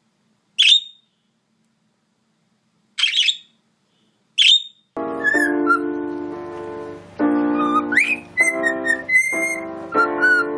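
Three short, high parrot chirps spaced a second or two apart. About halfway through, music with a keyboard-like melody begins and continues.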